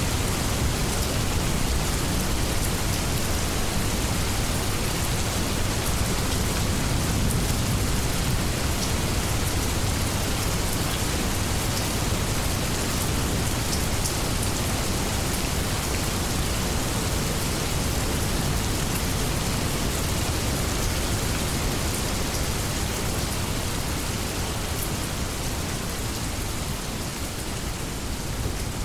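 Steady heavy rain of a rainstorm, a dense even hiss with a low rumble underneath.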